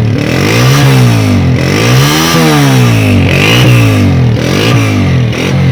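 Honda CG 125's single-cylinder four-stroke engine revved up and down several times through a new-model silencer, each blip of throttle rising and falling in pitch. It is the exhaust note that owners complain still does not sound right with this silencer fitted.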